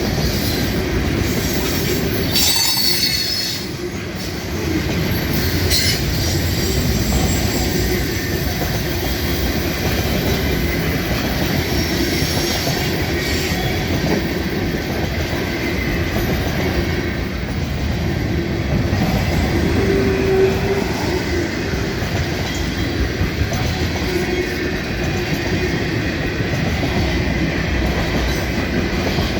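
Freight train cars rolling past close by: a steady rumble of steel wheels on the rail, with brief high-pitched wheel squeals about two to four seconds in and again around six seconds.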